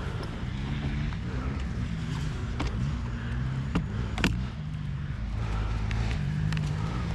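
2024 KTM 350 XC-F's single-cylinder four-stroke dirt bike engine running at low revs, its pitch shifting a little, with a few sharp clicks or knocks over it.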